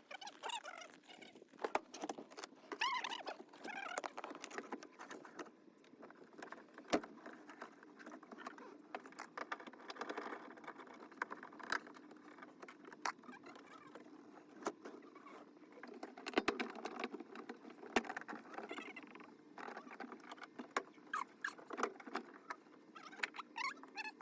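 Irregular clicks, taps and scraping, as of hands handling and working on small hard parts, with a few brief squeaks in the first few seconds.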